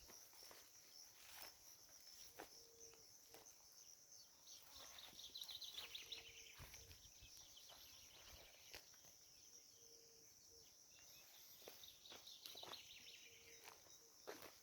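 Faint natural outdoor ambience: a steady high insect buzz, a bird trilling from about four to eight seconds in, and a short low call repeating every few seconds, with scattered soft clicks.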